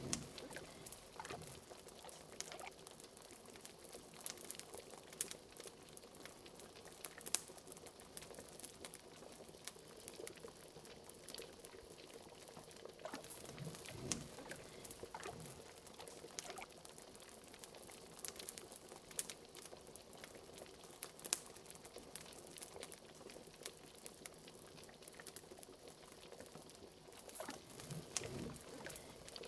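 Liquid bubbling steadily at a boil in a pot, with irregular small pops and crackles throughout and a few larger, deeper bubble plops.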